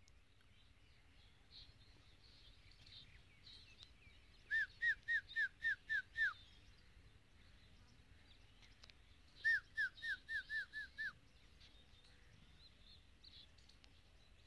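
A bird calling in two quick runs of about seven short whistled notes each, roughly four a second, over faint high chirping in the background.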